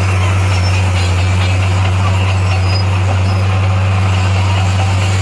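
Komatsu D58A bulldozer's diesel engine running steadily with an unbroken low drone.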